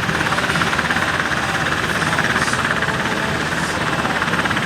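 Aircraft engine noise at an airshow: a loud, steady din with a fast, even pulse.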